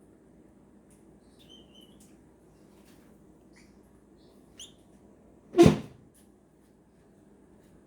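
A few faint, short squeaks from young cockatiel chicks, over a low steady hum, with one loud sharp thump a little past the middle.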